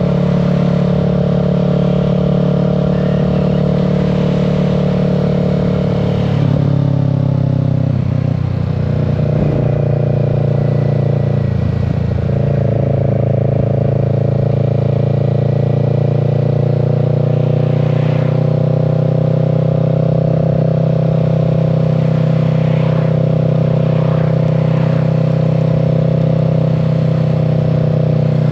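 Kawasaki Z650's parallel-twin engine running under way at a steady cruise. The revs change and wander between about six and twelve seconds in, then settle back to an even pitch.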